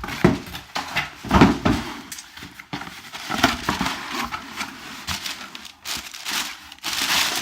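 Packaging being handled and opened: irregular rustling and crinkling with short knocks, and a longer rustle near the end.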